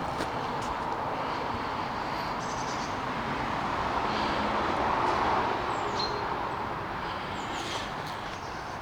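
A vehicle passing at a distance, its noise swelling about halfway through and fading again, with a few bird chirps over it.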